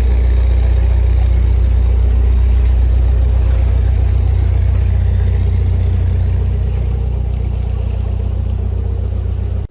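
Narrowboat diesel engine running steadily while cruising, a loud low hum that eases slightly late on and cuts off suddenly at the end.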